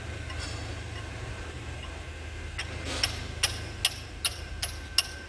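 A steady low hum, then from about halfway in a run of sharp metallic clicks, evenly spaced at two or three a second, from hand-tool work on a truck gearbox under overhaul.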